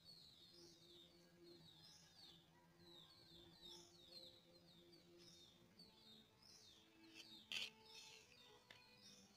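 Faint bird chirping: short falling chirps repeating about twice a second, over a faint low hum. A single sharp click about seven and a half seconds in.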